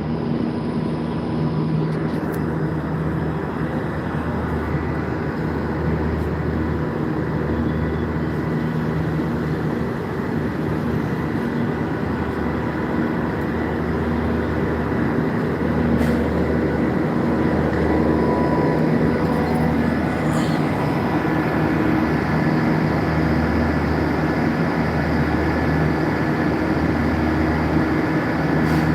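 Steady drone of running chiller plant machinery: a continuous low hum with several steady tones above it.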